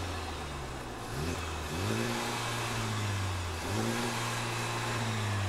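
2017 Honda Civic Type R's turbocharged 2.0-litre four-cylinder revved in neutral a few times through its triple-tip exhaust, the pitch climbing and then settling back after each blip. It has a deep growl, and revs are held to around 3,500 RPM while standing.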